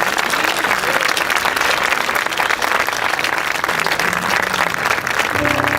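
Audience applauding steadily after a gospel song. A held instrumental chord comes in near the end.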